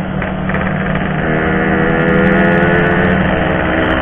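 Yamaha RX-King 135cc two-stroke single-cylinder motorcycle engine running under way, its note picking up a little about a second in and easing back near the end.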